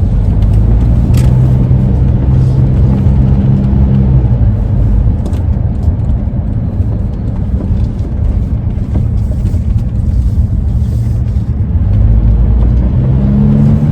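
Ford E-350 camper van on the move: steady engine and road rumble, with a low hum that fades after about four seconds and returns near the end, rising slightly in pitch.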